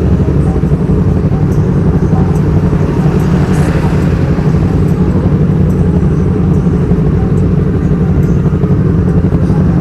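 Yamaha R25 parallel-twin engine running steadily through an aftermarket Black Devils exhaust. The exhaust note is loud and low, with no revving.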